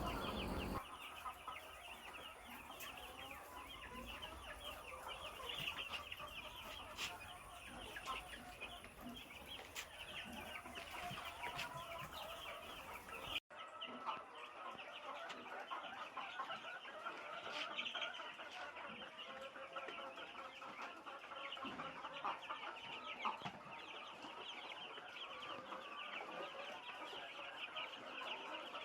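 A flock of 12-day-old broiler chicks peeping and cheeping together in a dense, steady chatter, the contented sound of birds that are settled and healthy after being moved into a new brooder house. There is a short break about halfway through.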